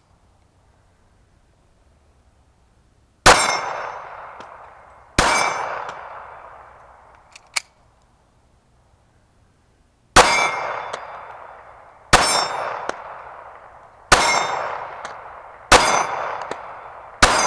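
Seven pistol shots from a 9mm Glock 26, spaced about two seconds apart with a longer pause after the second, each followed by the ringing of struck steel targets.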